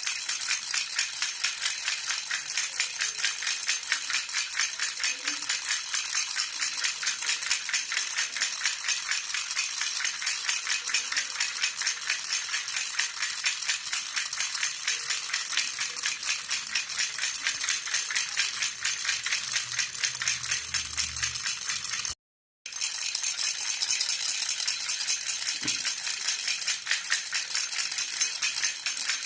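Silver jhunjhuna baby rattle shaken steadily and rapidly, its metal jingles chinking in an even, continuous rhythm. It breaks off for about half a second roughly three quarters of the way through, then carries on.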